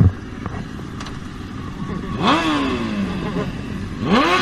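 Motorcycle engine revved twice, each time rising quickly in pitch, the first rev falling away slowly; a thump right at the start.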